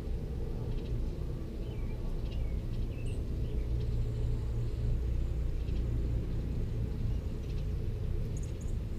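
A steady low rumble with faint bird calls over it: a few short chirps and falling notes in the first half, and a couple of high, thin notes near the end.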